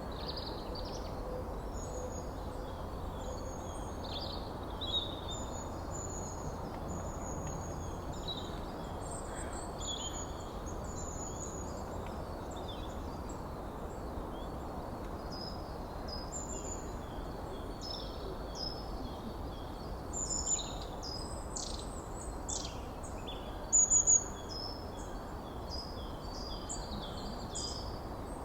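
Several forest birds calling and singing: many short, high whistled notes and chirps, busier in the second half, over a steady background hiss. A few louder sharp calls stand out about three quarters of the way in.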